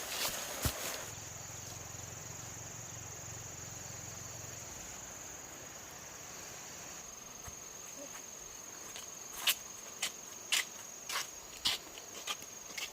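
Insects, likely crickets, give a steady high-pitched trill over faint outdoor hiss. In the last few seconds there is a series of sharp knocks.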